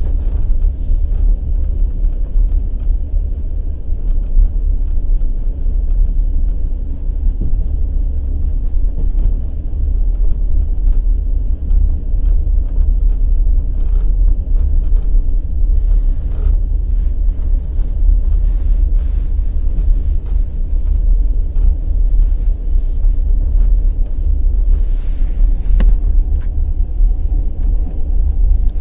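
Wheels of the Kovel–Kyiv night express passenger train rolling on the rails at speed: a loud, steady low rumble with scattered faint clicks.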